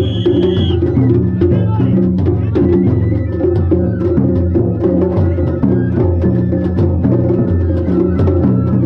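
Traditional Japanese festival music accompanying a kirin dance: drums and rapid, sharp wooden clicks over a low melody moving in steps.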